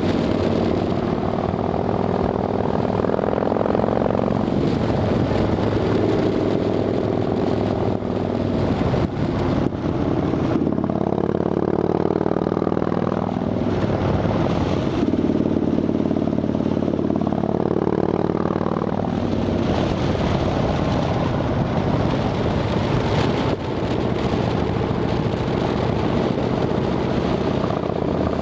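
Harley-Davidson Dyna Fat Bob's V-twin engine running through Vance & Hines Shortshots exhaust pipes fitted with quiet baffles, its note rising and falling several times.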